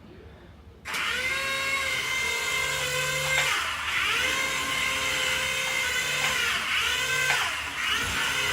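Mini remote-control toy helicopter's small electric motor and rotor blades starting up suddenly about a second in with a high whine, its pitch dipping and rising a few times as the throttle changes.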